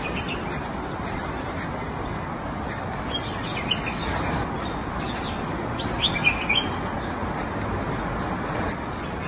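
Small birds chirping a few short times over a steady background noise, with the chirps clustered about three to four seconds in and again around six seconds in.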